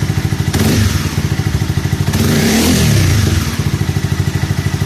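Honda CBR300R's single-cylinder engine running through an Akrapovic slip-on exhaust fitted with two dB-killer baffle inserts, its note damped. The engine is blipped, rising and falling in pitch near the middle, then settles back to an even, pulsing idle.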